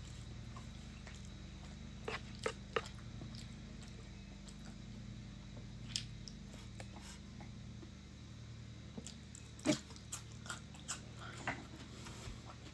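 Mouth sounds of chewing close to the microphone: scattered short wet clicks and smacks, a few of them sharper, over a steady low hum.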